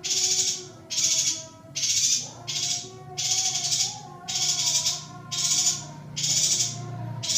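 Female yuhina calling: a steady series of harsh, hissing notes, a little more than one a second. Fainter wavering whistles run underneath.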